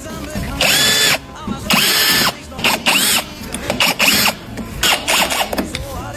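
Handheld electric power tool working on a damaged plastic car front bumper, run in about five short bursts of roughly half a second each. Its pitch rises and falls within each burst.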